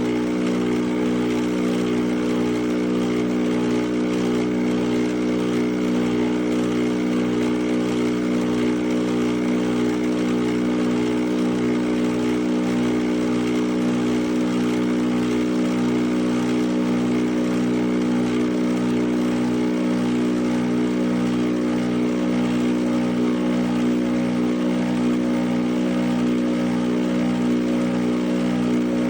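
Nespresso Vertuo Pop+ coffee machine brewing: its spinning capsule and pump give a steady, even machine hum.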